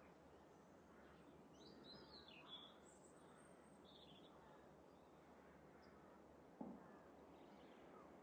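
Faint chirps and short calls of small garden birds over a steady low background noise, with a brief soft thump about six and a half seconds in.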